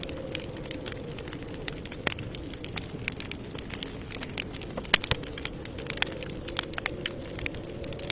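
Campfire crackling: irregular sharp pops and snaps of burning wood over a steady low hiss of flame, the loudest pop about five seconds in.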